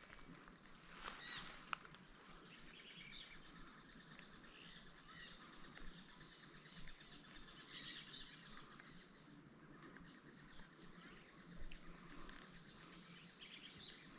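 Faint outdoor ambience with scattered distant bird chirps.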